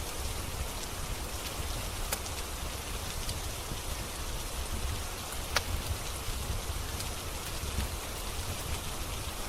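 Steady rain hissing on a surface, with a few sharp crackles of a wood fire scattered through it, the loudest pop a little past halfway.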